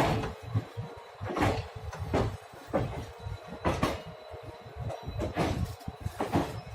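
Moving train heard from on board: a steady low rumble broken by irregular knocks and clanks, about six or seven in all.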